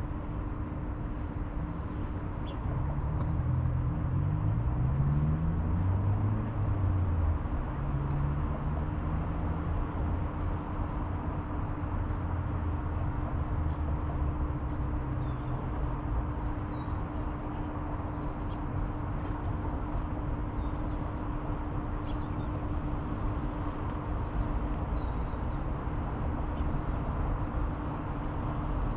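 Steady low rumble of distant city traffic with a constant hum running through it. A few seconds in, a vehicle can be heard accelerating up through its gears. Faint bird chirps come here and there.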